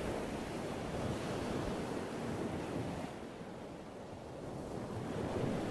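Ocean surf: waves breaking and washing in, easing off about halfway through and building again near the end.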